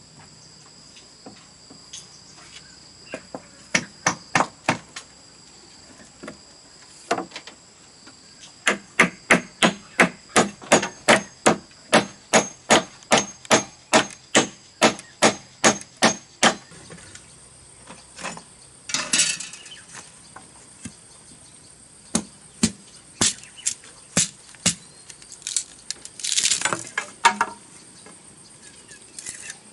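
Repeated sharp strikes on bamboo, a short cluster early and then a long even run of about two and a half blows a second, while building a bamboo dog house; twice later a longer rasping scrape. Steady high insect trilling runs underneath.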